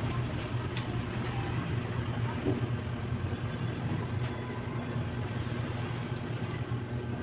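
Steady low mechanical hum, like a running motor, with a few faint clicks over it.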